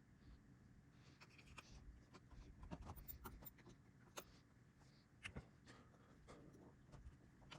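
Faint, scattered clicks, taps and light scraping of small tools and parts being handled, busiest about three seconds in, with a couple of sharper clicks near the end.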